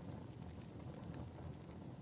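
Wood fire burning in a fireplace: a steady low rumble of flames with a few faint crackles.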